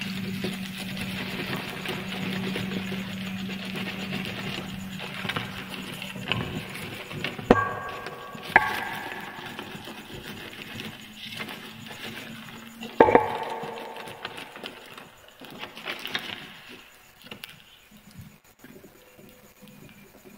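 Fire crackling densely over a steady low hum, broken by three sharp crashes, about 7.5, 8.5 and 13 seconds in, that each ring briefly, then dying down to sparse crackles near the end.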